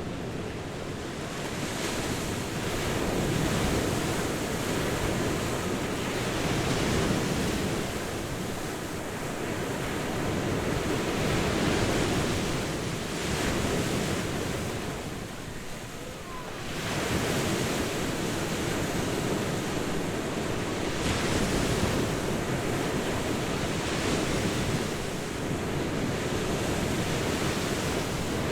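Ocean surf washing onto a beach, a continuous rushing wash that swells and eases every few seconds, with a brief lull about halfway through.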